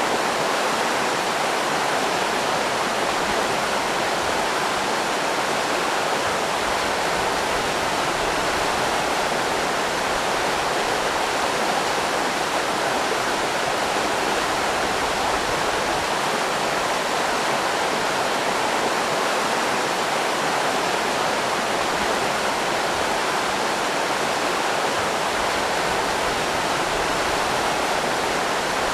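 River rapids rushing: a steady, even roar of water that does not change.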